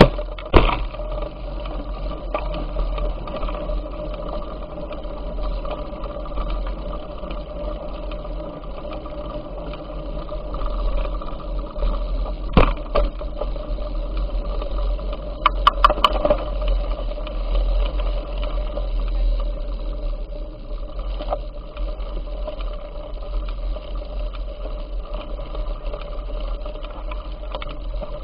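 Bicycle in motion: a steady whirring hum over low rumble, with occasional knocks and rattles, and a quick run of clicks about sixteen seconds in.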